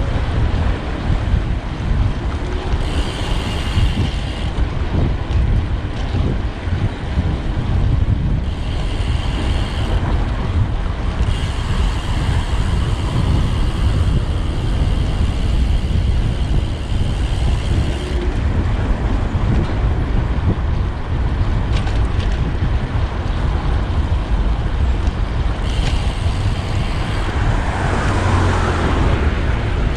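Wind buffeting the microphone of a camera on a moving road bike, a loud, steady low rumble. Now and then a higher, thinner note joins it for a few seconds.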